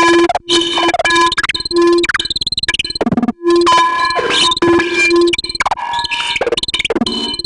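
Korg Volca Modular synthesizer making glitchy noise music: choppy, stuttering tones that cut in and out, a low note repeatedly switching on and off, and several sweeps in pitch, broken by brief drop-outs.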